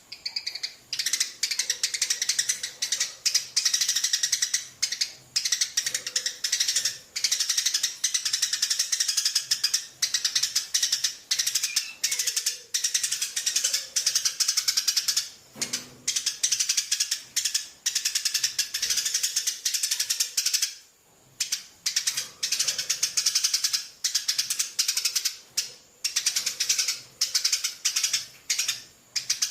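A parrot feeding its chick: rapid, rasping clicking in repeated bouts of a second or two, broken by short pauses.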